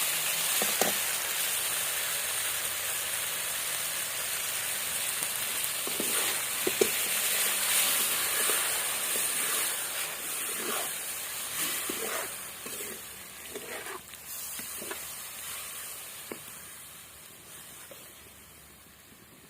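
Mushroom curry sizzling as it fries in a pan, with a few light knocks as it is stirred. The sizzle slowly dies down over the last several seconds.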